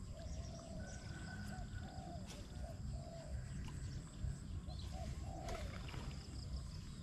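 Birds calling in the background, a run of short low notes repeated about twice a second, with one higher whistled note about a second in. Under them is a steady low rumble.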